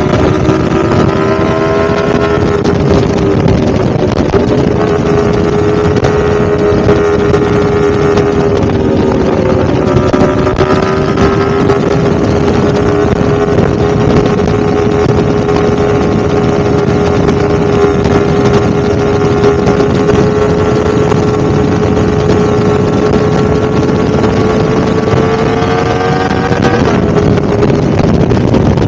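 Yamaha R1M's crossplane inline-four engine running at a steady, high-pitched note, the pitch drifting gently up and down, with wind buffeting the microphone. Near the end the note climbs slightly, then drops back abruptly.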